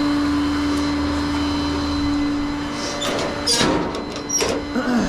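Tow truck's engine running steadily at one even pitch, with two sharp clanks about three and a half and four and a half seconds in.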